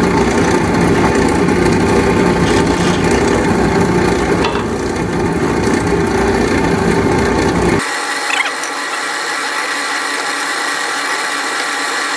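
Belt-driven drill press running at high speed and drilling pilot holes in cedar, with a heavy rumbling racket that comes from loose set screws on its rear pulley. About eight seconds in the sound changes abruptly to a quieter, smoother running with the low rumble gone.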